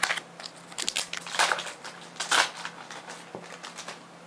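Foil Pokémon booster pack wrapper crinkling and tearing as it is opened, a run of sharp crackles in the first two and a half seconds that then fades.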